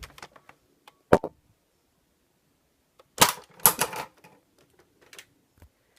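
Nerf Alpha Trooper CS-12 pump-action dart blaster being worked and fired: a single sharp snap about a second in, then a quick cluster of loud plastic clacks around three to four seconds, with a few lighter clicks after.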